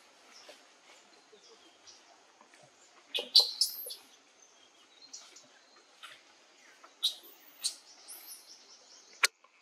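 Birds chirping: a few sharp, high calls that sweep up and back down, the loudest about three seconds in and two more around seven seconds, over a steady background hiss. A single sharp click sounds just before the end.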